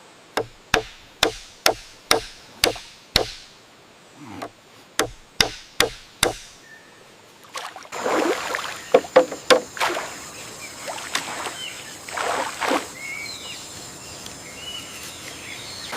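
Bamboo being struck with a tool in a steady run of sharp knocks, about two a second, eight strikes and then four more after a short pause. Later comes a watery sloshing and splashing with a few scattered knocks.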